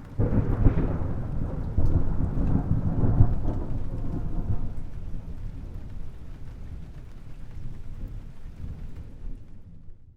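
A thunderclap that breaks in suddenly and rumbles low and loud for the first few seconds. It then slowly dies away into a long fading rumble that cuts off abruptly at the very end.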